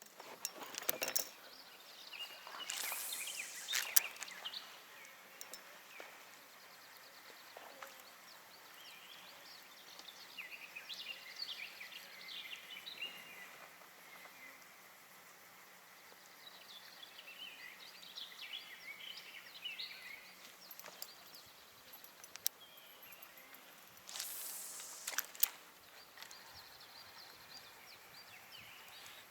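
Quiet outdoor ambience with small birds singing in short chirping phrases. Twice there is a brief louder rustle with a sharp click, about three seconds in and near the end.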